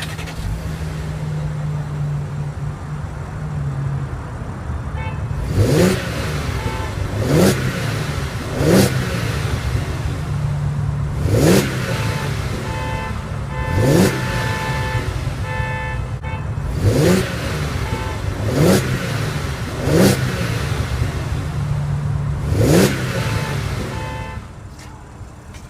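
2015 Audi Q7's 3.0-litre supercharged V6 idling steadily, then blipped on the throttle about nine times, each rev rising quickly and falling back to idle.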